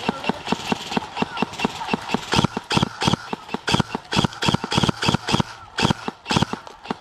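Quick footsteps of a player moving across the ground: a rapid, uneven run of thuds, several a second.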